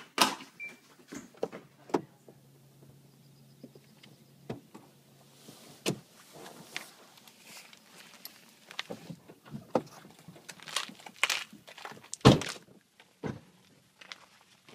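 Scattered knocks, clicks and thumps at irregular intervals, the loudest a heavy thump about twelve seconds in.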